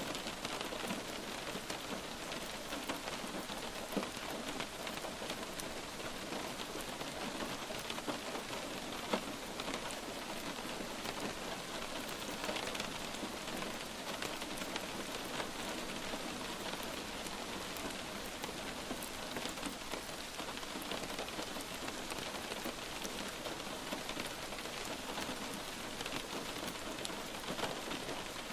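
Light rain falling steadily: a dense, even hiss of drops with scattered sharper drop ticks.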